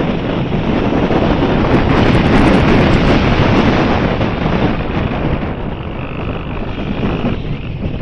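Strong wind buffeting the microphone, a dense rumble that eases slightly in the last few seconds. A faint thin whistle-like tone shows briefly near the end.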